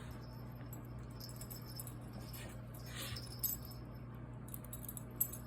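Light metallic jingling in short, scattered bursts, typical of a dog's collar tags or bells shaking as it moves, over a steady low hum.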